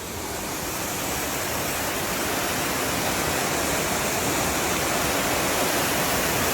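Waterfall rushing: a steady noise of falling water that grows louder over the first couple of seconds, then holds.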